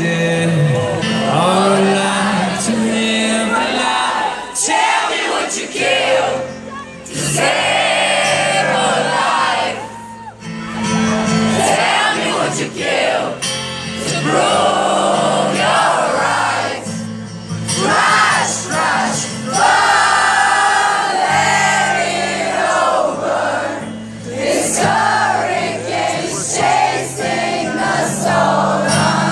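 Live acoustic rock song at a concert: sung vocals over steady held chords, with the crowd singing along.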